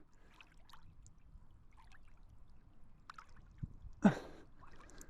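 Quiet lake water lapping and trickling around a swimmer's GoPro, with small scattered splashes from his one-handed strokes and a short louder splash or breath about four seconds in.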